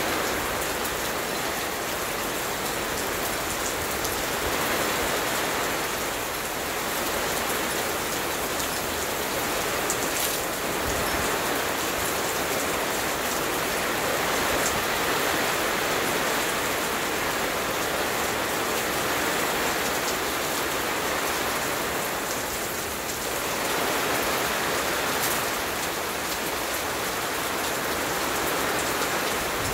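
Steady rain falling on a garden and lawn, an even hiss that swells and eases slightly every few seconds.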